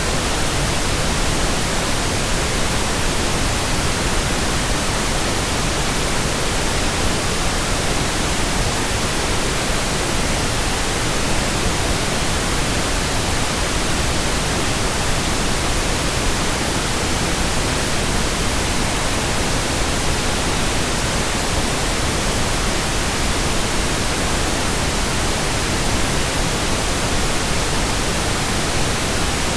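Steady synthetic white noise: an even, unchanging hiss across the whole range, with no events or variation.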